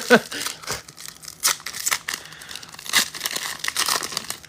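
Foil trading-card pack wrapper being torn open and crinkled by hand: irregular crackling and tearing, strongest about a second and a half in and again around three to four seconds.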